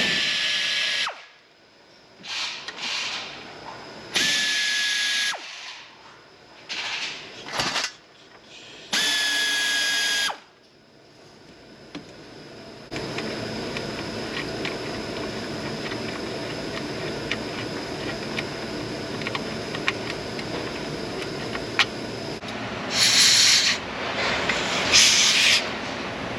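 A cordless power tool, drill or driver, runs in three short bursts of about a second each with a steady whine that sags slightly under load. About halfway through comes a steady rushing noise lasting several seconds, then a few harsh short bursts near the end.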